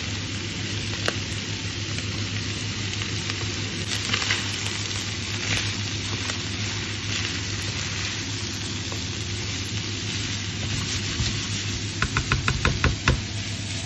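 Diced shallots, garlic, carrot and chicken sizzling steadily in a frying pan, with a few quick taps and scrapes of a slotted spatula against the pan near the end.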